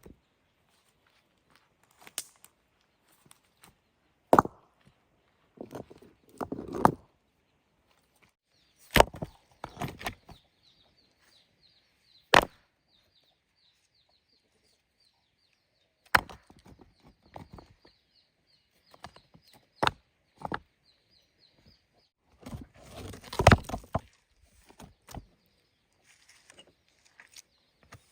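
Irregular sharp knocks and thuds a few seconds apart, some followed by a short scraping rustle, with a faint high chirping trill in the background through the middle.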